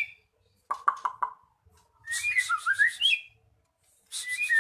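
White-rumped shama singing: a quick run of sharp notes, then a phrase of rising whistled notes over a harsh, raspy rattle, with a second such phrase starting near the end. This is a lure song for provoking a silent shama into singing.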